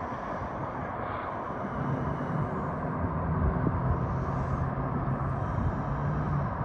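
Freight train's diesel locomotives running in a steady rumble, with a low engine drone that sets in about two seconds in and holds until near the end.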